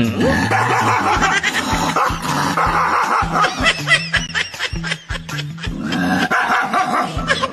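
Dog barking and yipping over background music with a repeating bass beat.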